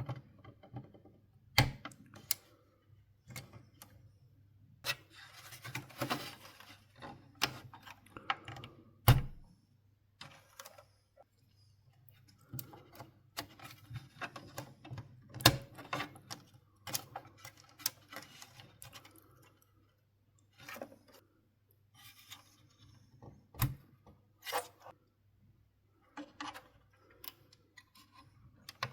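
Hands working on a PlayStation 4 console's parts: irregular clicks, taps and knocks of hard plastic and metal, with a few short stretches of scraping, over a faint steady low hum.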